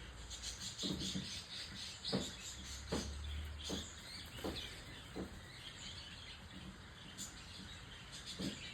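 Small birds chirping in the background, with several short, soft knocks scattered irregularly through.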